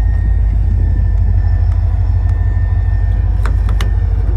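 Steady low vehicle rumble, with a couple of light clicks near the end.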